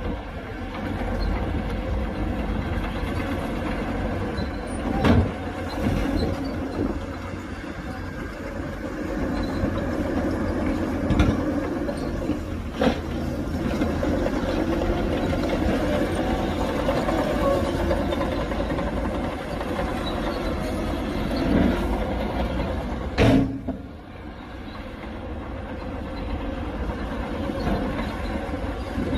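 Heavy diesel earthmoving machinery running steadily, with several sharp metallic clanks scattered through it.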